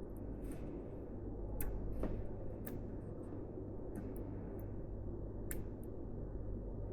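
Hands handling PC parts, with light, irregular clicks and taps of small components over a steady low hum.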